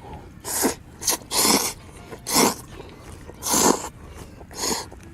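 A person making six short, sharp, breathy sounds with the mouth and nose, about one a second.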